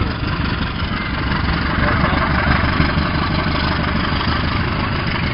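Diesel passenger train passing close by: its engine running and the carriages rolling over the rails, a loud steady noise.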